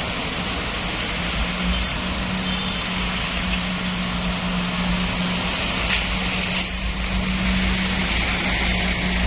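A vehicle engine running steadily with a low, even hum over a haze of road and wind noise, with a brief tick about six and a half seconds in.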